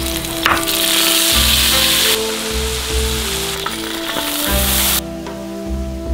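Peanuts and pork cracklings sizzling in a hot wok. The sizzle swells twice and cuts off about five seconds in, over soft background music.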